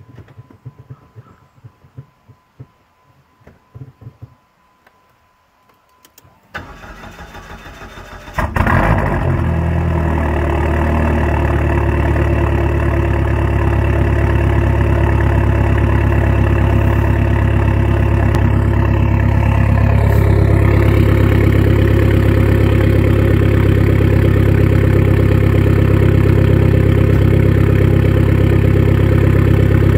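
Dodge SRT-4's turbocharged 2.4-litre four-cylinder, fitted with a 3-inch downpipe and straight-pipe exhaust, being cold-started. A few small clicks come first, then the starter cranks for about two seconds before the engine catches about eight seconds in and settles into a loud, steady idle.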